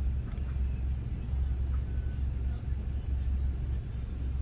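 Idling vehicle engine heard from inside the cab, a steady low rumble.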